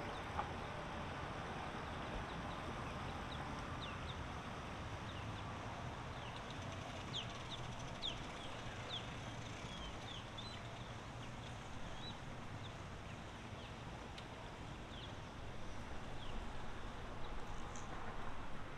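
Faint steady outdoor background with a low hum, and many short, high bird chirps scattered through it, most around the middle.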